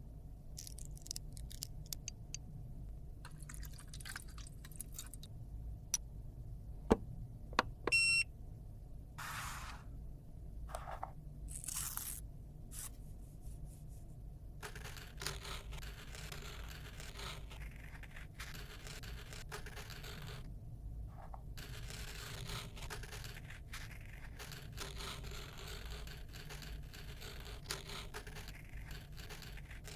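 Close-up handling of makeup with a tool: scattered clicks and a few sharp taps, a short pitched chirp a little before halfway, then steady scraping and crunching of the product through the second half.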